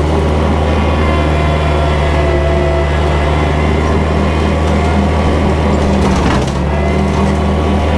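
Kubota tractor's diesel engine running steadily under load while bush hogging thick brush with a rotary cutter. The level dips briefly about six seconds in.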